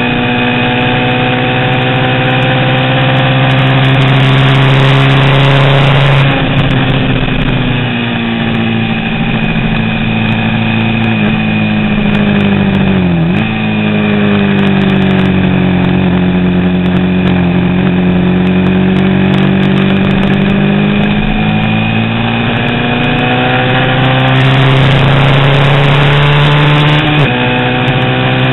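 Honda CB350 racing motorcycle engine running hard under load, its pitch rising and falling slowly with speed. The pitch drops abruptly at about six seconds and again near the end, typical of gear changes, with a brief sharp dip and recovery about halfway through.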